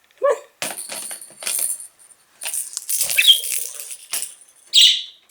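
Budgie scrabbling about, with crackly rustling and light rattling in two spells, then a short chirp about three seconds in and a louder chirp near the end.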